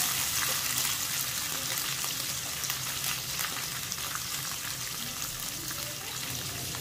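Curry leaves, garlic cloves and green chillies sizzling and crackling in hot oil in a non-stick pan, the sizzle slowly dying down.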